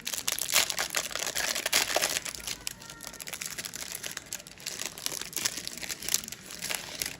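Plastic card wrapper being torn open and crinkled by hand, a dense irregular crackle that is loudest at first and thins out toward the end.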